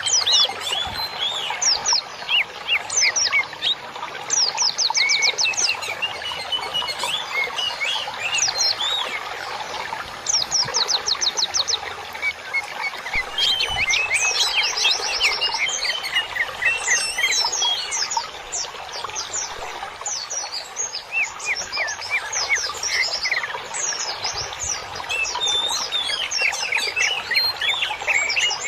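Many small songbirds chirping and singing together in a dense, unbroken chorus of quick high notes, with fast trills now and then.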